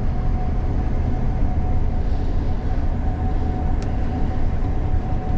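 Gleaner combine running steadily, heard from inside the cab: a constant low machinery rumble with a thin steady whine above it.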